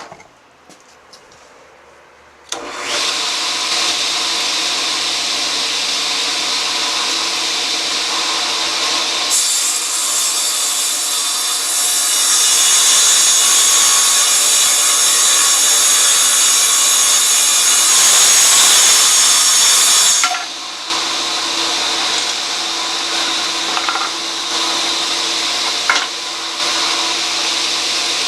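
Rockwell Beaver table saw started up about two and a half seconds in and running steadily. From about nine seconds to about twenty seconds the blade cuts through a board with a louder hiss, a test cut with a newly fitted blade. After that the saw runs free again.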